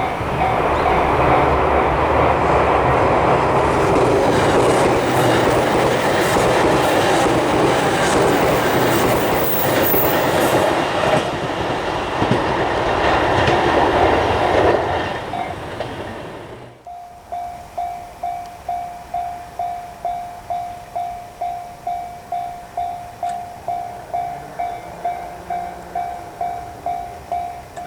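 A train passing over the level crossing, its wheels clattering over the rail joints, for about fifteen seconds; then it drops away abruptly. After that only the Japanese crossing's warning bell is left, a steady electronic ding at about two to three strokes a second, still sounding after the train has cleared.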